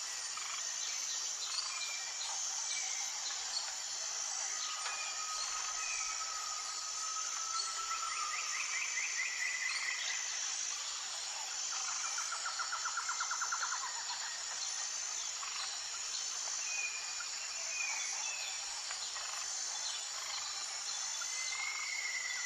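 Tropical forest ambience: a steady, high-pitched insect chorus with one insect call pulsing at an even beat. Over it, birds give scattered whistles and trills, including a long whistle and two rapid trills in the middle.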